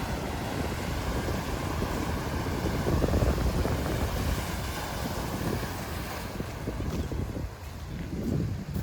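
Heavy ocean surf breaking, with wind buffeting the microphone in low, gusty rumbles.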